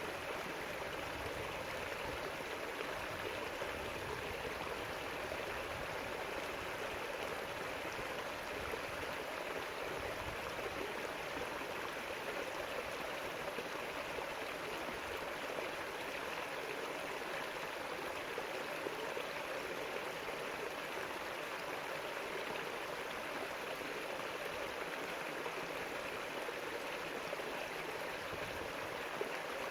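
River water rushing and gurgling over rocks in a steady, unbroken flow.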